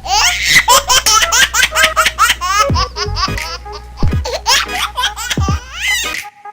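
Rapid, high-pitched laughter in a quick run of laughs, over a low steady hum that cuts off near the end.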